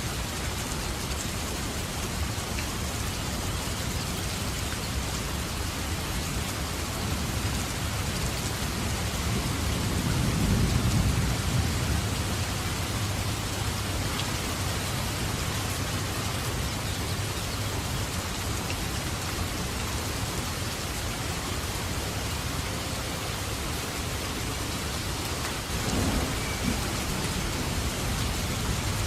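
Steady rain falling, with rolling thunder: a low rumble swells about a third of the way in and fades, and a shorter rumble comes near the end.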